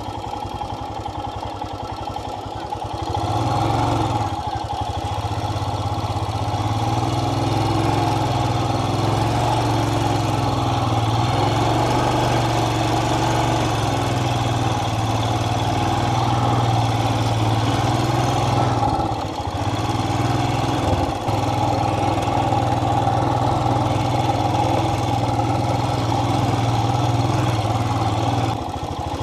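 Royal Enfield motorcycle engine running steadily while riding; the engine gets louder about three seconds in, and its note dips briefly about two-thirds of the way through before picking up again.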